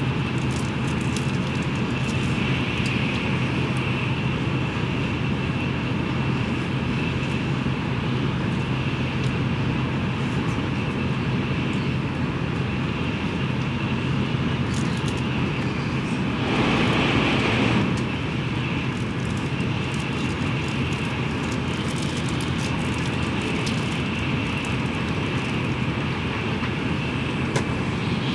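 Steady running noise of a Tokaido Shinkansen train heard inside the passenger cabin at speed. About two-thirds of the way through, a brief louder rush lasts a second or two.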